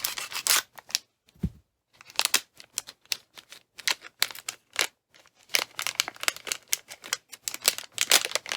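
Packaging being handled and opened by hand: bursts of quick, irregular clicks and crinkles, with a short low thud about a second and a half in.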